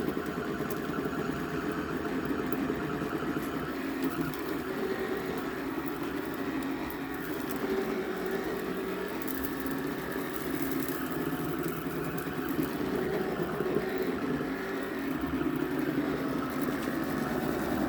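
Shark two-speed motorized carpet sweeper running steadily as it is pushed over carpet, its brush roll humming while it sweeps up kitty litter, sand and pet hair.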